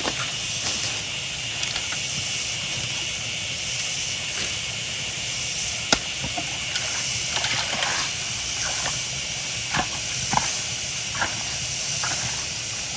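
Steady rush of water running out of creek culverts, with a few scattered knocks and clicks.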